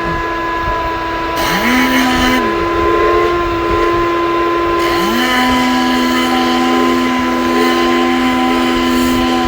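Motorised detailing equipment running with a steady whine and hiss, its pitch dropping and recovering several times as the motor is loaded and released.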